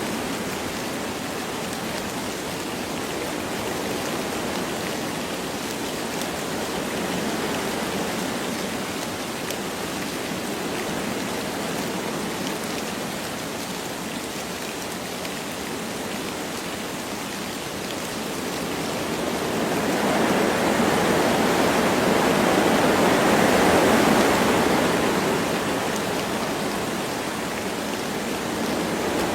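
Wind blowing through forest trees with light rain: a steady rushing noise that swells into a stronger gust about two-thirds of the way through, then eases.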